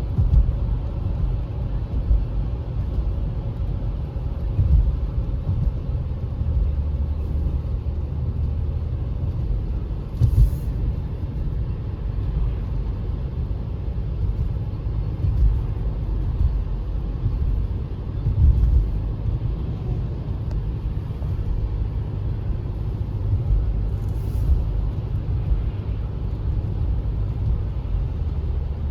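Car driving: a steady low rumble of engine and road noise, with a few brief thumps.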